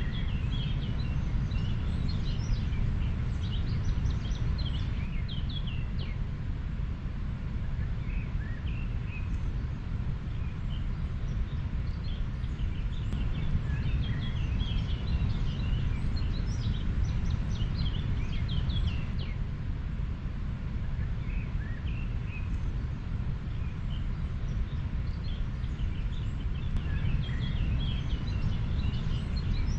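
Steady rushing of a river, with small birds chirping in scattered clusters over it.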